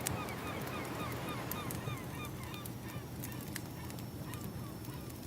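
Ambience track of a crackling wood fire with scattered sharp pops, over a steady low rumble of waves, while a bird repeats short falling calls about three times a second.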